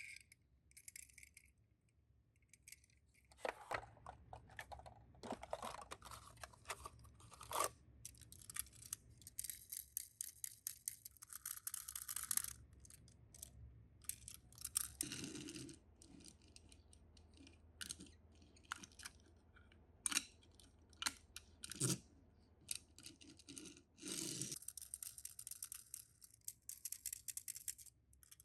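Tomica die-cast minicars and their cardboard boxes being handled: irregular rustles, clicks and small knocks, with a few longer scraping or tearing stretches.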